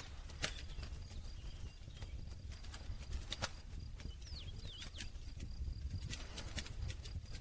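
Wood campfire burning with a steady low rumble of flames and irregular sharp crackles and pops of burning wood. A few faint high chirps glide past about four and a half seconds in.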